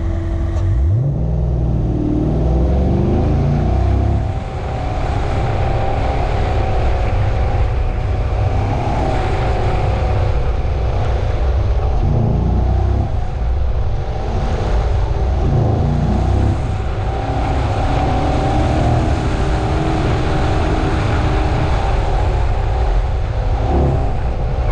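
Corvette Z07's 6.2-litre V8 pulling hard on an autocross run: the revs climb steeply just after the start, then rise and fall with the throttle between corners, easing off briefly about four seconds in.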